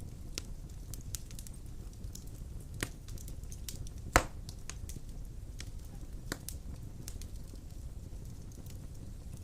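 Large logs burning in a stone fireplace: a steady low rumble of flames with scattered wood crackles, and one loud sharp pop a little past four seconds in.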